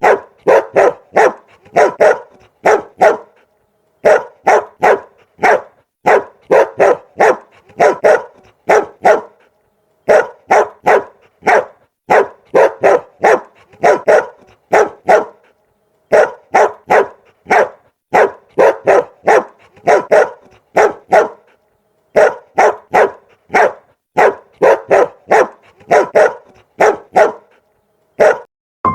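A dog barking in rapid runs of short, sharp barks, about three a second, each run broken off by a pause of about a second before the next.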